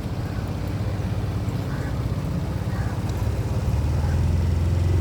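Boat engine running steadily, a low hum that grows louder over the last couple of seconds.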